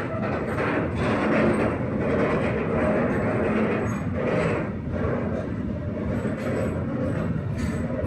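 Freight train of loaded hopper wagons rolling past, a steady noise of steel wheels on the rails with irregular light knocks.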